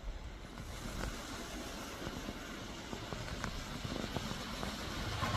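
Lego train running along plastic track, a steady motor-and-wheel rumble that grows gradually louder, with a few light clicks.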